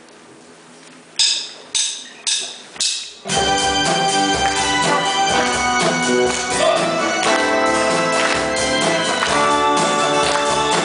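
Four sharp count-in strokes about half a second apart, then a live band comes in all together and plays on steadily.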